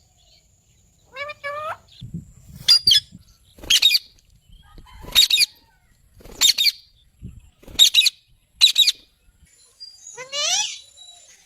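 Parrots calling. A pair of short pitched calls comes first, then a run of about six loud, harsh screeches roughly a second apart, and a rising call near the end.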